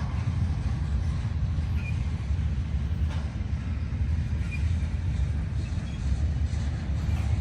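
Freight train rolling past with a steady low rumble, with a couple of faint wheel clicks over rail joints.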